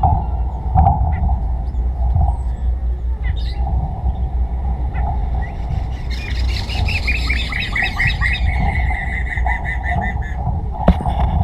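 A songbird calling: a few short high notes, then about six seconds in a run of quick notes that settles into an even trill for some four seconds, over a steady low rumble.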